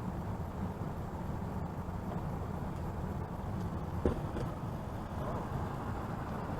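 Steady low rush of water flowing over a dam, with a single faint knock about four seconds in.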